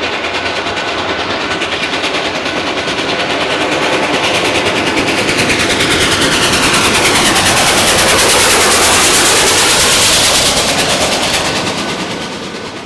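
Freight train passing close at speed, its wheels clattering rapidly over the rail joints, growing louder to a peak then dropping away near the end.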